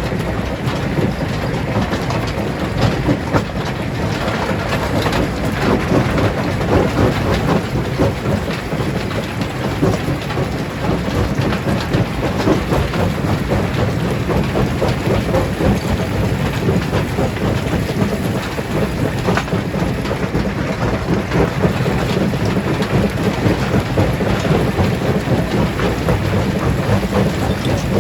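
Stone crusher working on rocks: a continuous dense clatter of stone knocking and grinding, with many small impacts throughout and a heavy low undertone.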